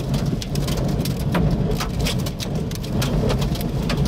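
Heavy storm rain pelting a vehicle, with many irregular sharp hits over a steady low rumble, near a tornado.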